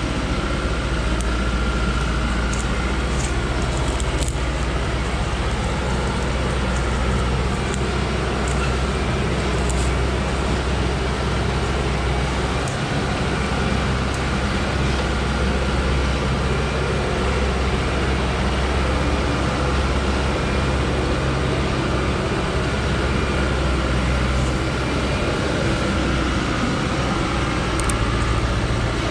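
A heavy modified logging truck's engine runs steadily at an even level, with a deep hum and a faint high whine. A few light high-pitched clicks or rattles come through now and then.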